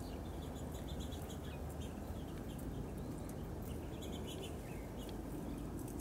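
Birds giving many short, high chirps scattered irregularly, over a steady low background rumble.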